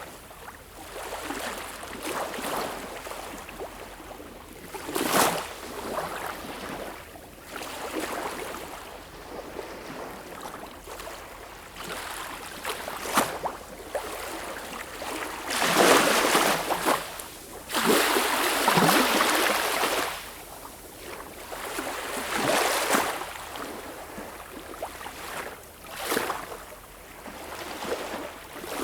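Sea waves washing and splashing in uneven surges. The biggest surge comes a little past halfway and lasts several seconds.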